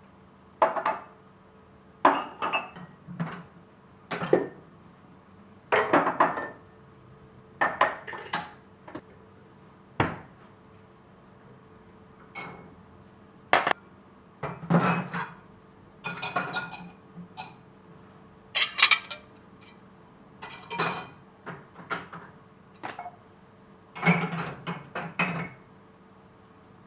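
Crockery and cutlery clattering and clinking as dishes are stacked into a dishwasher, in irregular bursts a second or two apart, over a faint steady hum.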